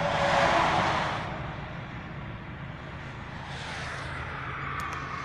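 Jet airliner noise: a rushing roar that swells in the first second, drops away, then builds again near the end.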